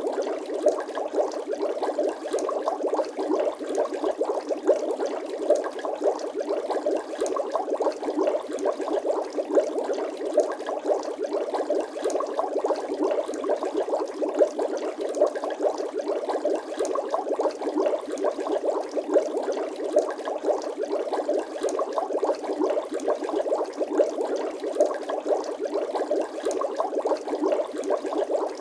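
Bubbling water sound effect: a steady, dense stream of small bubbles popping, many quick pops overlapping.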